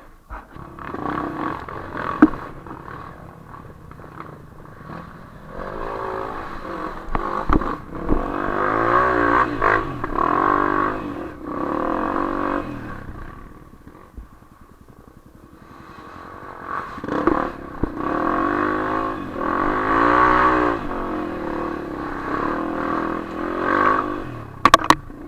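Off-road vehicle engine revving hard on a muddy trail climb, in two long surges with the pitch rising and falling, and a few sharp clattering knocks near the end.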